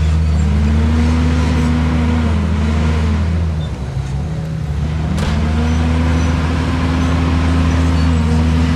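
Heavy diesel engine of an earthmoving machine running steadily, its pitch swelling up and easing down as the throttle is worked. The level dips briefly about four seconds in, and there is a single sharp click just after five seconds.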